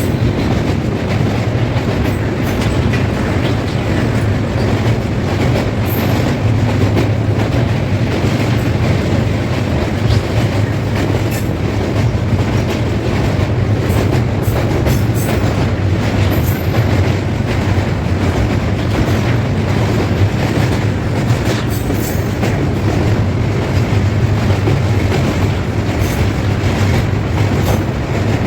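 Kapotaksha Express passenger train running steadily on the rails: a constant low rumble with scattered clicks of the wheels over rail joints.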